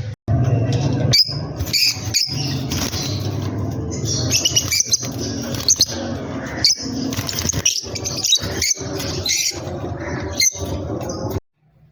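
Birds chirping repeatedly, with many short high calls over a steady low hum. The sound cuts off suddenly near the end.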